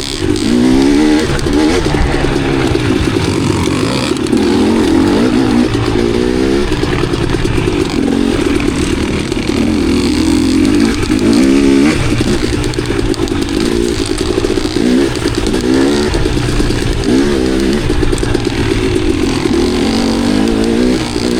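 Dirt bike engine being ridden hard on a trail, the revs rising and falling every second or two as the throttle is worked on and off.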